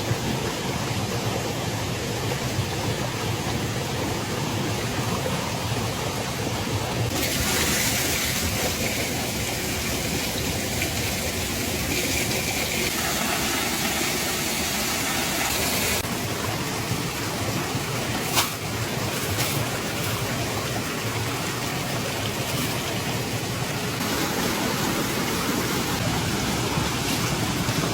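Steady rushing noise of rain and running water. It grows brighter and hissier for several seconds from about a quarter of the way in, and there is one sharp click a little past the middle.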